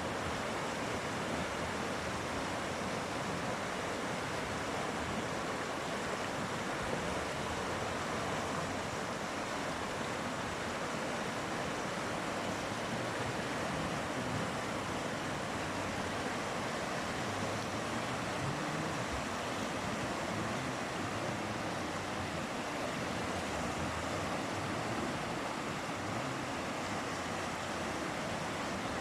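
Mountain river rushing steadily over its bed, an even unbroken roar of flowing water.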